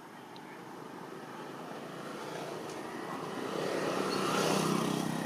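Motor vehicle engine approaching, growing steadily louder and loudest near the end.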